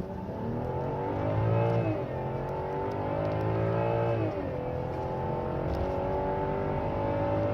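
BMW F01 7 Series accelerating at full throttle, its engine note climbing through the gears. It drops at an upshift about two seconds in and again about four and a half seconds in, then climbs more slowly.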